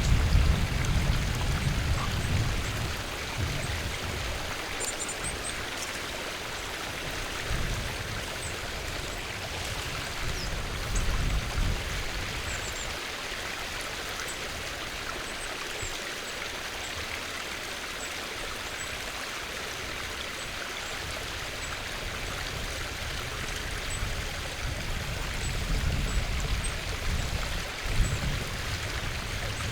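Stream water running steadily, with a few faint, high bird chirps now and then and low rumbles at the start and near the end.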